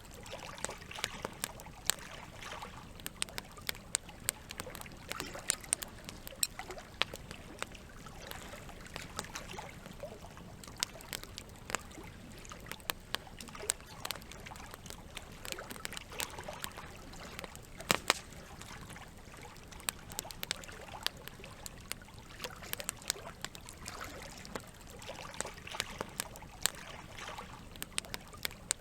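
Campfire crackling, with many irregular sharp pops and snaps, a few louder than the rest, over a steady wash of moving water.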